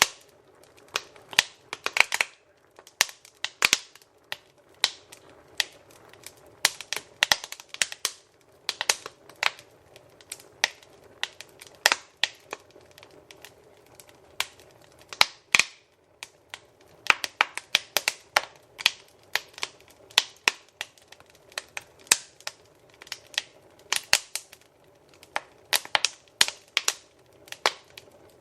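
Wood fire crackling in a fireplace: irregular sharp pops and snaps, several a second, over a faint soft hiss.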